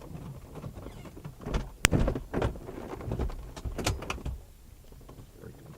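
Scattered knocks, thuds and clicks of things being handled, with one sharp click about two seconds in.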